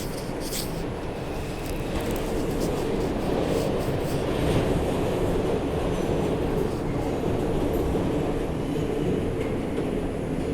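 Steady running noise inside an R142 subway car moving at speed: a rumble of wheels and traction motors on the rails, with a few light clicks.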